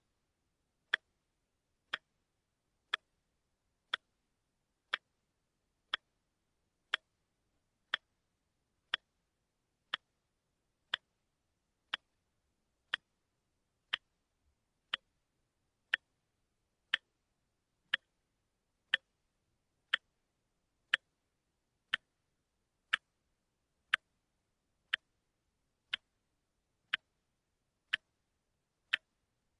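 Watch ticking, one sharp tick per second.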